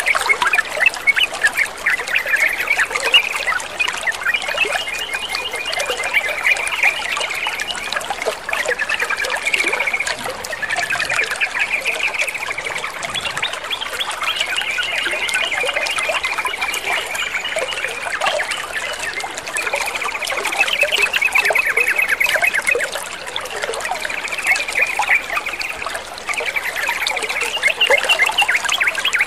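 Yellow-vented bulbuls (trucukan) calling in repeated rapid chattering phrases over a continuous trickle of running water.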